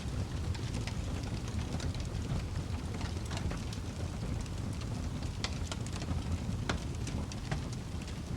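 Fireplace fire burning with a steady low rumble and irregular sharp crackles and pops from the burning wood.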